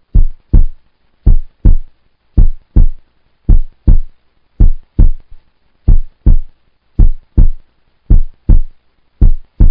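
Heartbeat sound effect: nine low double thumps, lub-dub, about one beat a second, with silence between them.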